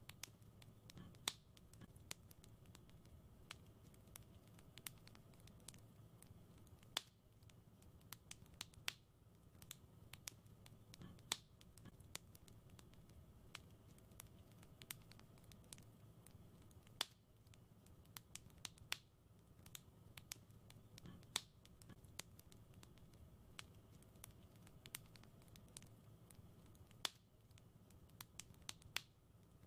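Faint wood fire crackling: scattered sharp pops and ticks over a low steady rumble. The same pattern of louder pops repeats about every ten seconds.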